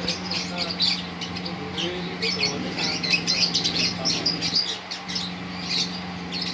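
Lovebird chattering in a fast, unbroken run of short, sharp, high chirps: the rolling song that bird keepers call 'ngerol'. A steady low hum runs underneath.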